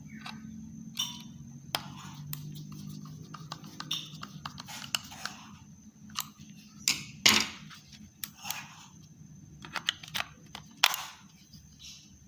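Irregular clicks, taps and short scrapes of the small plastic parts of an SPC SMW-10 wireless mouse being handled, with a sharper knock about seven seconds in and another near eleven seconds.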